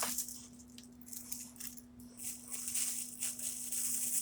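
Light rustling and a few small clicks of objects being handled, denser in the second half.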